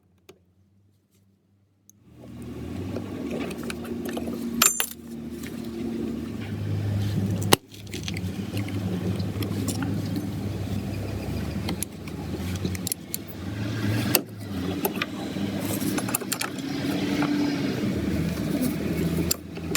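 Hand tools working the mounting bolts loose on a rusty outboard power trim motor. Metal clinks and rattles, with a few sharp clicks, over a steady low noise. The sound starts about two seconds in.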